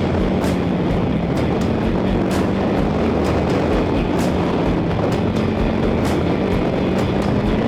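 Trail motorcycle's engine running steadily at a constant speed under way, with wind and road noise on a camera mounted on the moving bike.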